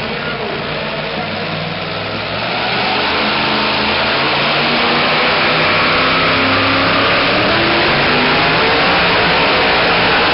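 Engine of a super modified two-wheel-drive pulling truck at full throttle, getting louder about two and a half seconds in and then holding a steady high pitch.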